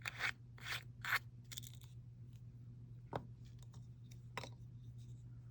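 Handling noise from small plastic powder jars and packaging: four short scraping, rustling sounds in the first second and a half, then two sharp clicks, over a steady low hum.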